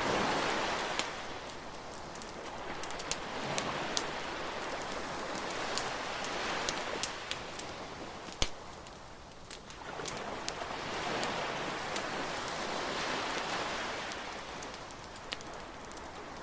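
Beach bonfire crackling, with sharp pops scattered throughout and one louder pop past the middle, over a rushing hiss that swells and fades every few seconds.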